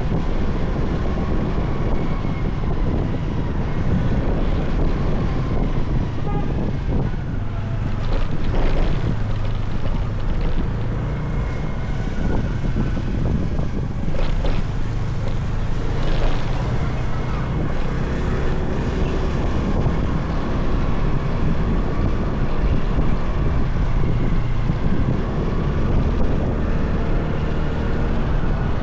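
Motorcycle engine running as the bike rides along, its pitch drifting up and down, with wind rushing over the microphone. A few brief noisy bursts come in the middle.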